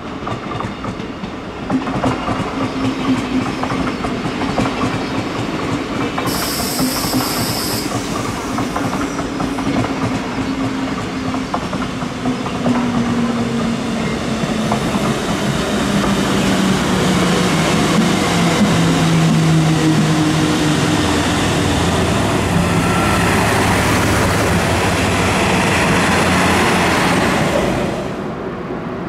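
Electric train running past on the platform track, its motor whine stepping down in pitch as it slows, with wheels clicking over the rails. A brief high squeal about six seconds in; the noise grows louder toward the end and cuts off suddenly.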